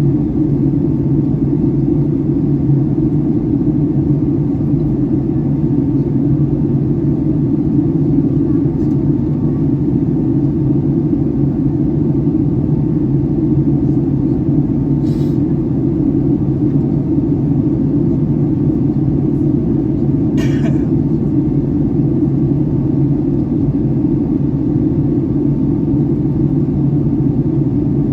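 Steady cabin roar inside a Boeing 757-300 airliner in flight on descent, a deep even rush of airflow and engine noise. Two brief clicks break it, a little past halfway and again about five seconds later.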